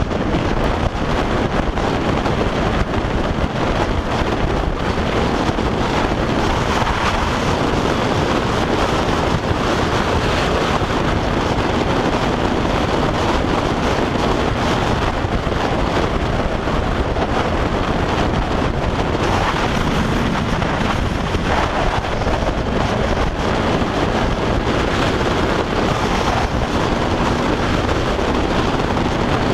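Steady wind noise rushing over the microphone of a moving motorcycle, with the KTM 390 Duke's single-cylinder engine running underneath.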